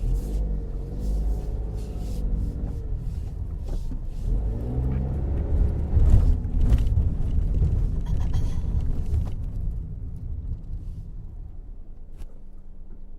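Car engine running while driving, with a low rumble; the engine note rises and falls twice in the first half, then settles quieter near the end.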